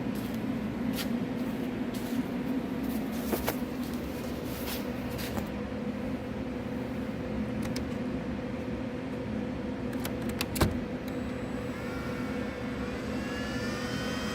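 Prototype 75x2000 mm belt grinder running with a steady motor hum, broken by scattered light clicks and one sharp knock about ten and a half seconds in. Near the end a rising whine begins as the machine speeds up.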